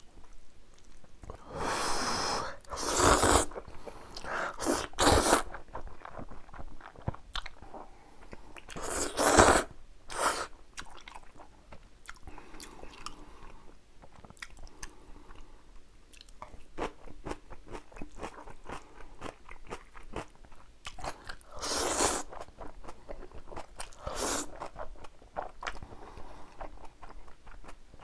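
Close-miked mukbang eating of spicy jjapagetti noodles and kimchi: steady chewing with crunchy bites. Louder bursts come about two, nine and twenty-two seconds in.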